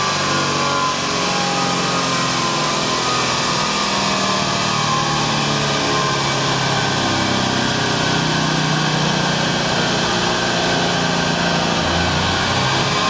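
A 1999–2004 Ford Mustang running steadily on a portable chassis dyno. Its engine holds a steady note, and a whine falls in pitch over the first few seconds and climbs again near the end.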